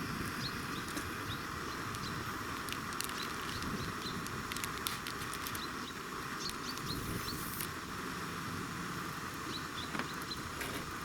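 Steady outdoor hiss with small bird chirps, short and high, coming in twos and threes, and scattered light clicks.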